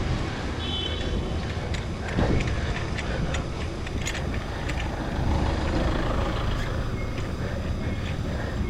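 Wind rumbling on the microphone while cycling, with scattered clicks and rattles from the bicycle and road and a louder gust about two seconds in.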